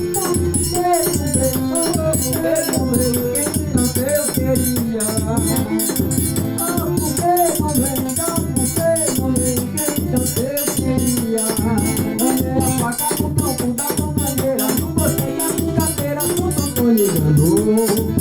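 Instrumental forró break: an accordion plays the melody over a quick, steady beat of high metallic strokes and low drum pulses, in the style of a triangle and zabumba.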